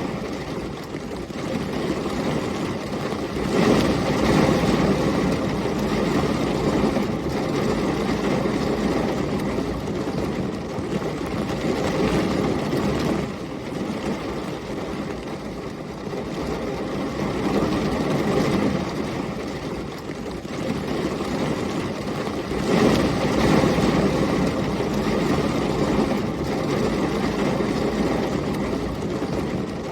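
Heavy rain and storm wind as a steady rushing noise. It swells into louder, deeper rumbles twice: a few seconds in, and again about two-thirds of the way through.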